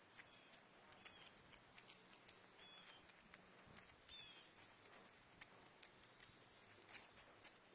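Faint, quiet scene with scattered light clicks and four short, high chirps in the first half: Canada jays calling softly while feeding.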